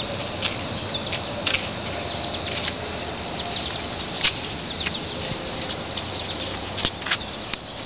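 Short, high chirps of small birds, scattered irregularly over a steady background hiss.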